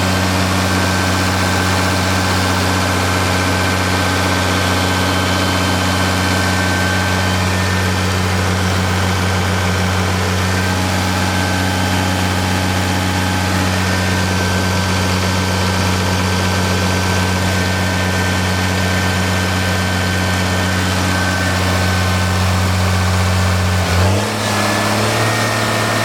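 Caterpillar CFE-series 7.2 L inline-six diesel engine running at a steady speed, then revved up about two seconds before the end.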